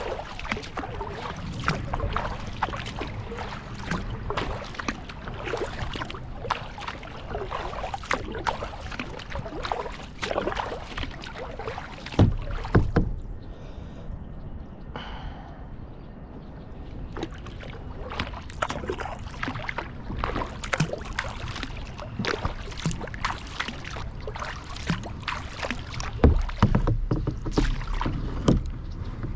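Kayak paddling: paddle blades splashing and dripping in the water in an irregular run, with a couple of heavier low knocks, about halfway through and near the end.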